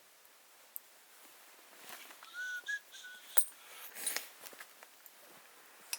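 A brief high whistle-like note, sliding up slightly, about two seconds in, with a few light clicks around it.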